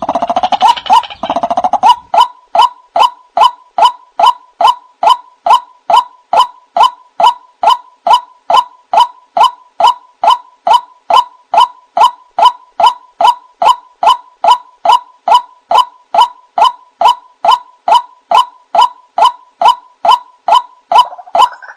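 White-breasted waterhen (ruak-ruak) calling: a long, even series of short repeated notes, about two and a half a second. A denser, harsher burst of overlapping calls joins in during the first two seconds and again at the very end.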